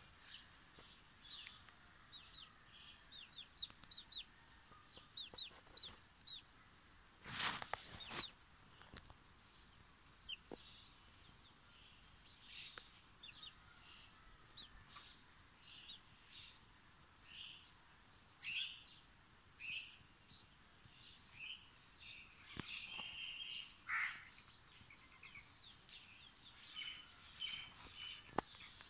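A chick peeping over and over in short high-pitched calls, several a second, the calls of a frightened chick. A brief loud noise breaks in about seven seconds in.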